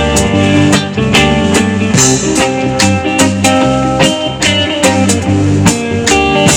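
Live band playing an instrumental passage between sung lines: guitar over bass and a drum kit keeping a steady beat.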